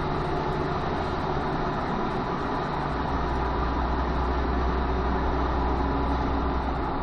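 Steady car engine hum and road noise, without any impact; the low hum grows stronger about halfway through.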